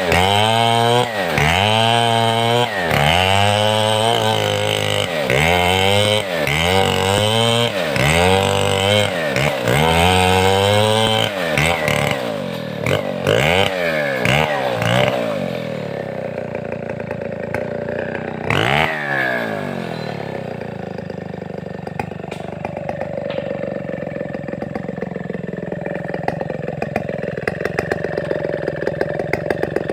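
Large two-stroke chainsaw of the Stihl 070 type, revving up and down about once a second. About halfway through it settles to a lower, steadier running with a slowly wandering pitch.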